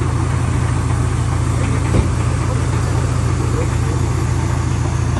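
Tractor engine running at a steady speed, driving a tractor-powered hydraulic wood chipper, with one sharp knock about two seconds in.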